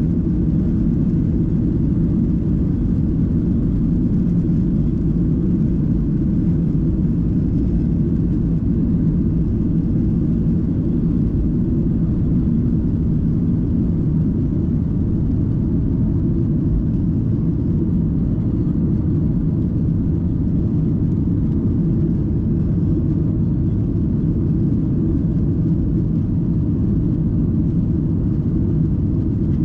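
Steady low drone inside the passenger cabin of a Boeing 737-800 in flight, from its CFM56-7B turbofan engines and the airflow over the fuselage, unchanging throughout.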